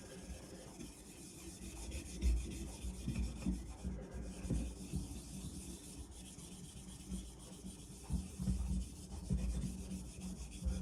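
Hand scrubbing of surface rust off a carbon steel blade: uneven rubbing strokes with dull low knocks as the blade shifts.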